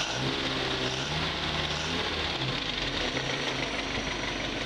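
Willys CJ3B's F-head four-cylinder engine running on its own after restoration, which the owner calls running nice. Its speed rises and falls during the first couple of seconds as the throttle is worked by hand at the carburettor, then settles to a steady idle.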